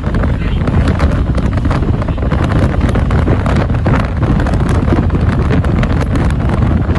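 Strong storm wind buffeting the microphone in a steady heavy rumble, with many quick irregular ticks and crackles over it.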